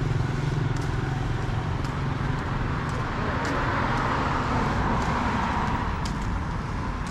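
Street traffic: vehicle engines running close by, with a vehicle passing and swelling in level around the middle.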